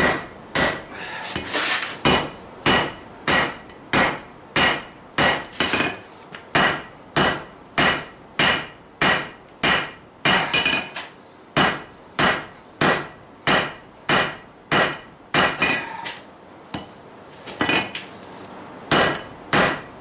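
Hand hammer striking hot axle steel on a Vulcan 90-pound cast-iron anvil, drawing out a taper for a hardy cut-off tool. Steady blows, about three every two seconds, each with a brief ring, with a short pause near the end.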